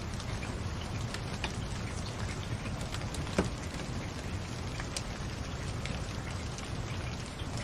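Crackling fireplace: a steady low rush of burning logs with scattered sharp crackles, and one louder pop about three and a half seconds in.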